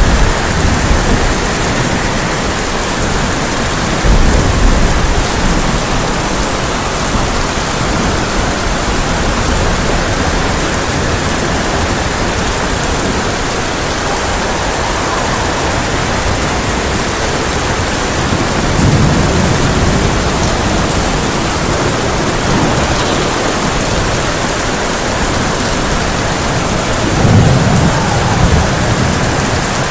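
Heavy rain falling steadily on a tin roof, with low rolls of thunder rumbling at the start, about four seconds in, around twenty seconds and, loudest, a couple of seconds before the end.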